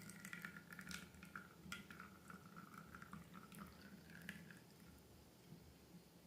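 Faint, sticky squishing and small crackling clicks of slime being worked by hand, fading out about four and a half seconds in.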